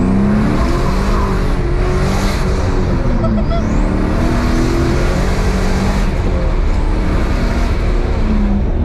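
Turbocharged car engine running hard under acceleration, heard from inside the cabin. The engine pitch climbs and drops several times as the revs rise and fall, and a thin rising turbo whine is heard about three and a half seconds in.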